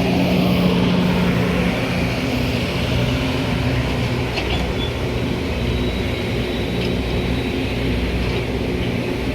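Metra commuter train running with a steady low drone and hum, a few faint clicks about halfway through.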